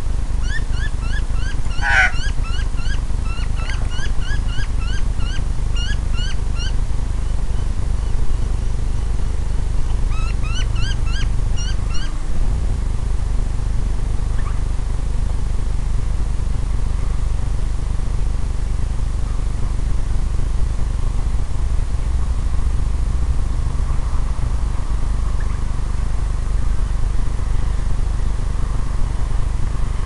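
A bird calling in quick runs of short, rising notes for the first several seconds and again briefly around ten seconds in, over a steady low rumble.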